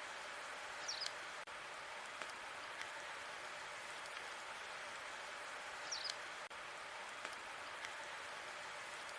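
Logs burning in a fireplace: a steady hiss of flame with sharp crackles and pops scattered through, the loudest a short cluster about a second in and another about six seconds in.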